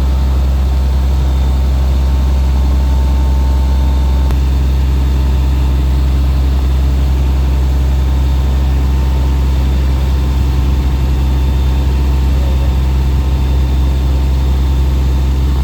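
Fire engine's engine running at a steady speed, a loud, even low drone that does not change.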